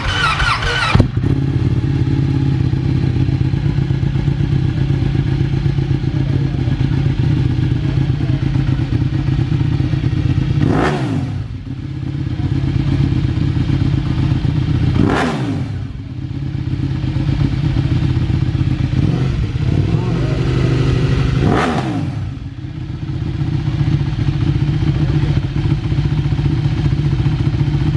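Ducati sportbike engine idling loudly with a deep, even note, blipped three or four times so the revs rise and fall quickly each time. There is a short clatter about a second in.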